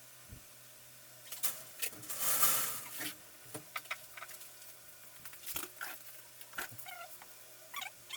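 Scattered clicks and taps with a brief rustle about two seconds in, from computer parts and packaging being handled during a PC case installation. Short, quick squeaks come in near the end.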